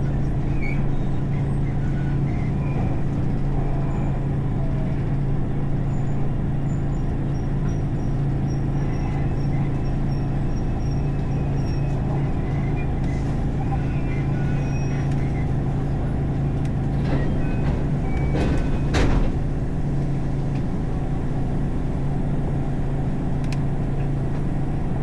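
Inside a Japanese electric commuter train: a steady low hum with a rumble beneath it, and a brief louder clatter about eighteen seconds in.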